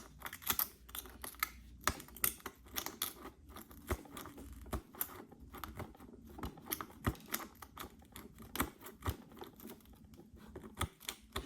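Irregular sharp clicks and ticks, several a second, of a prying tool chipping and scraping shattered back glass off an iPhone SE.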